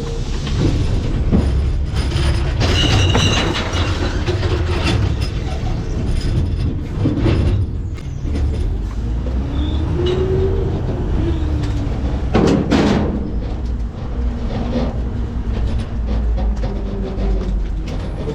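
Hydraulic packer of a McNeilus ZR rear-loading garbage truck cycling through the hopper, crushing and compacting trash: a steady low rumble with creaks and metallic squeals, a whine that rises and falls about midway, and a loud crunch a little past twelve seconds in.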